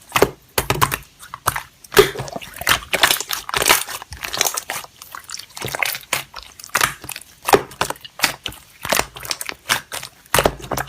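Slime being squished and worked by hand, making many irregular sticky clicks and crunchy crackles.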